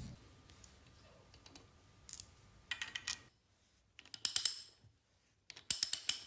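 Small hard clicks and clinks coming in four quick clusters, like small parts or tools being handled on a workbench.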